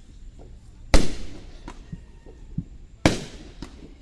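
Aerial fireworks shells bursting: two loud booms about two seconds apart, one about a second in and one about three seconds in, each trailing off in a rolling echo, with fainter pops between.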